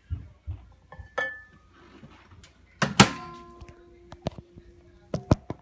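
Knocks and clunks of a microwave oven being handled: a short beep about a second in, then a loud clunk about three seconds in that leaves a ringing tone, and two sharp clicks near the end.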